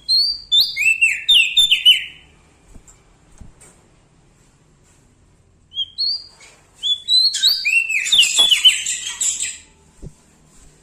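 Prenjak daun songbird singing loudly in two bursts of quick, high, downward-sliding whistled notes. The first burst comes at the start and lasts about two seconds; the second runs from about six seconds to about nine and a half.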